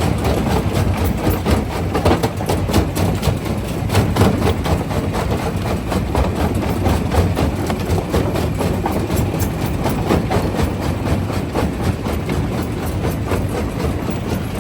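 Quarry primary jaw crusher running: a steady heavy machine drone with frequent irregular cracks and knocks of rock being broken between the jaws.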